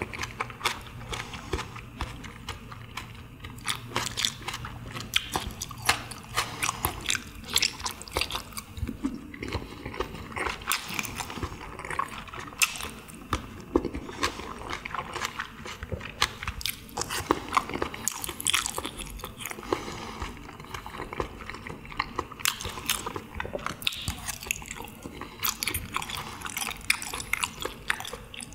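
Close-miked chewing and biting of chewy sliced pressed meats (pyeonyuk): a steady run of irregular mouth clicks and smacks.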